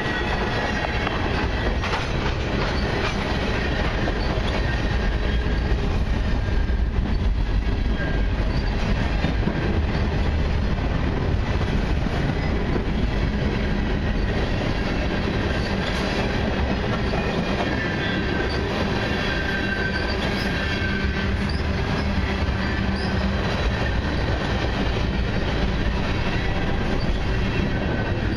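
Freight cars of a long train, tank cars and steel-coil cars, rolling steadily past close by: a continuous rumble of steel wheels on rail. A thin high wheel squeal comes and goes, clearest about two-thirds of the way through.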